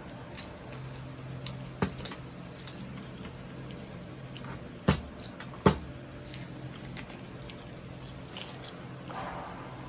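Close-up eating sounds of a person chewing crispy deep-fried pork knuckle: wet, squishy chewing and mouth noises with scattered small clicks. Two sharp, louder clicks come about five and six seconds in, over a faint steady low hum.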